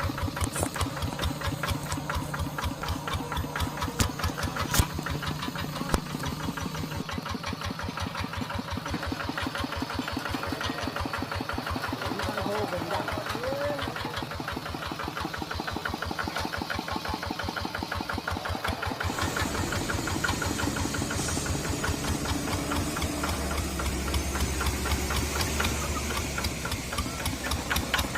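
Tractor engine running steadily with a rapid, even knock, changing in tone about two-thirds of the way through.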